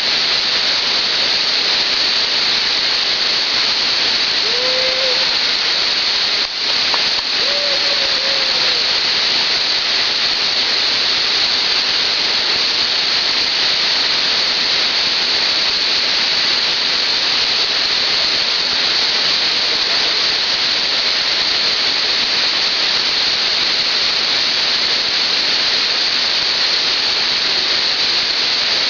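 Waterfall, falling water making a loud, steady, unbroken rush.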